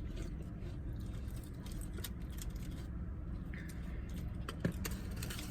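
Eating wings and handling takeout packaging inside a car: scattered soft clicks, crackles and rustles, one sharper click near the end, over the car's steady low hum.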